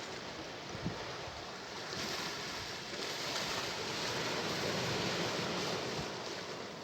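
Sea waves washing on the shore: a steady rush of surf that swells about two seconds in and eases off near the end. A brief low thump about a second in.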